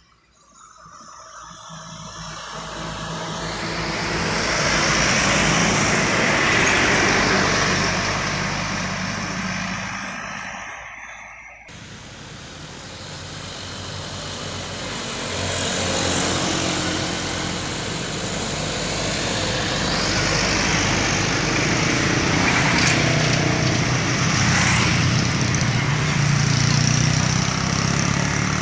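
Trucks passing on a steep uphill road: one vehicle's noise swells for several seconds and fades, then after a sudden cut another approaches, its low engine rumble growing stronger near the end.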